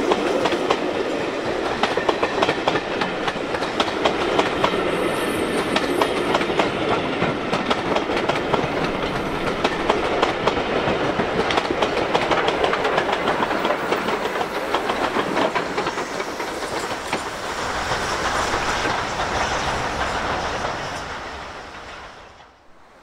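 Passenger train with a USATC S160 steam locomotive at its rear passing close by, its wheels clicking over the rail joints in a rapid clickety-clack. The sound fades as the train draws away near the end.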